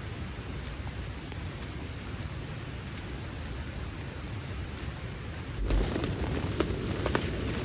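Heavy rain falling steadily. About three-quarters of the way through there is a low thump, and the sound gets louder, with scattered sharp clicks.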